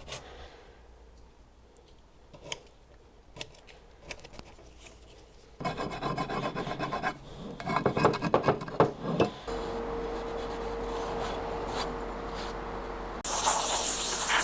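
Sharpened Perspex scraper rubbing and scraping dried old gasket material off the gearbox's sealing face in short repeated strokes, after a few seconds of light scattered taps. A loud steady hiss starts near the end.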